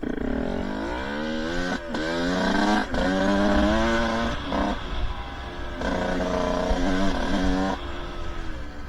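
Two-stroke dirt bike engine revving up and down under changing throttle, its pitch rising and falling in several pulls, with brief drops between them.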